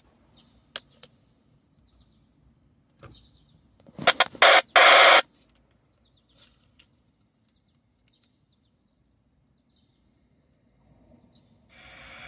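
Scanner radio sitting mostly quiet between transmissions; about four seconds in, a loud burst of static about a second long. Near the end the squelch opens with a steady hiss ahead of the next transmission.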